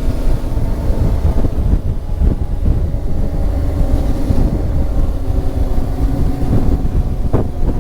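Motorcycle engine running at a steady cruise, with wind buffeting the helmet microphone as a heavy low rumble.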